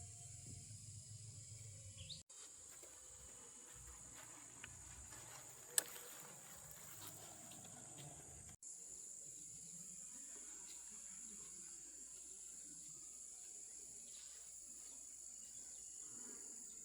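Faint, steady high-pitched insect chirring, as from crickets, with one sharp click about six seconds in.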